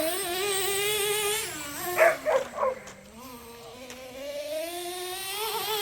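Traxxas T-Maxx 3.3's two-stroke nitro engine buzzing at a high pitch as the RC truck drives, its pitch easing off and getting quieter around the middle, then climbing again. A dog barks a few times in quick succession about two seconds in.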